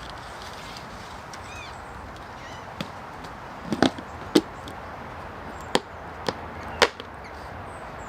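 A series of sharp, short knocks: six or seven of them spread over about four seconds, two in quick succession near the middle.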